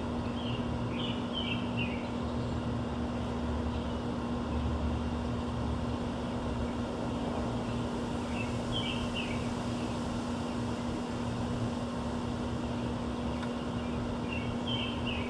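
Small birds chirping in short bursts three times: near the start, about nine seconds in, and near the end. Under them runs a steady low rumble with a constant hum.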